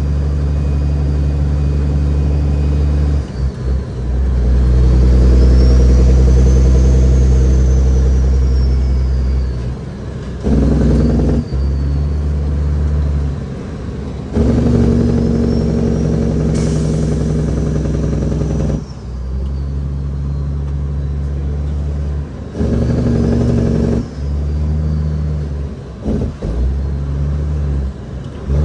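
Caterpillar 6NZ inline-six diesel in a heavily loaded Kenworth W900L pulling through the gears: the engine note runs in several pulls, broken by short dips at each gear shift. A high turbo whine rises and falls during the pulls.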